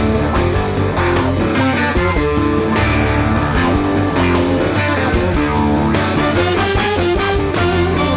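Live rock band playing an instrumental passage: guitar over a steady drum beat and bass.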